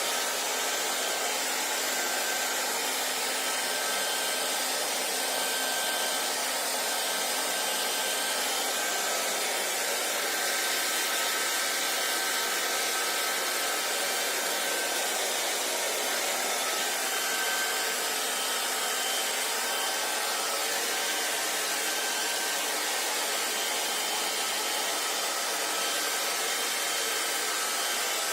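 Hair dryer running steadily: an even blowing whoosh of air with a faint motor whine, unchanging throughout.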